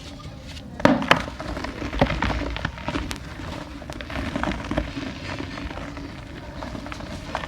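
Dry mini clay pots cracking and crumbling, a run of sharp snaps and gritty crunches, the loudest cracks about a second in.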